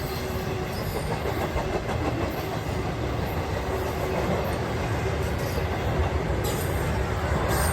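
Train rolling past: a steady rumble of steel wheels on rail, with a few clicks as the wheels cross rail joints.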